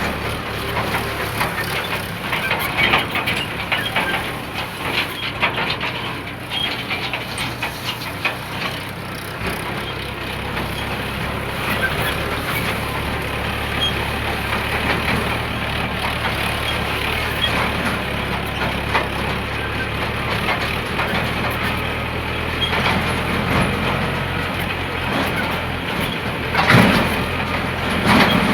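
Diesel tractor engine running steadily, with rattling, and one sharp knock near the end.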